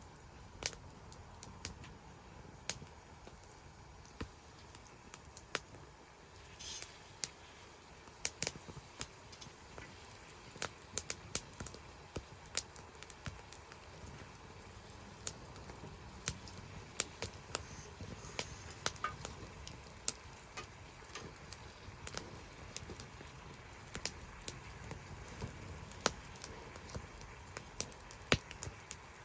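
Wood fire burning in a secondary-combustion fire pit, crackling with irregular sharp pops a few times a second over a soft low hiss.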